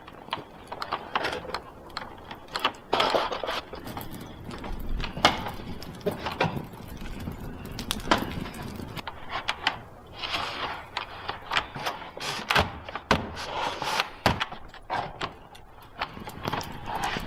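Irregular knocks, clicks and clatter of objects being handled and set down, a few sharper knocks standing out.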